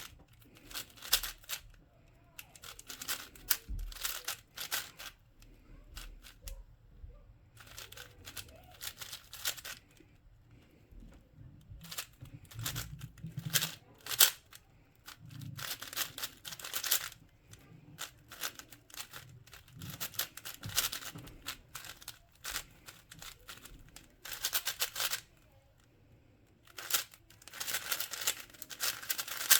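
Plastic puzzle cube being turned quickly by hand: bursts of rapid clicking and clacking as the layers turn, with short pauses between.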